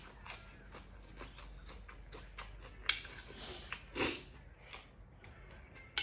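Close-up eating sounds: chewing and crunching of pork salad and raw vegetables, with scattered small clicks and clinks of utensils and dishes and a louder noisy crunch about four seconds in.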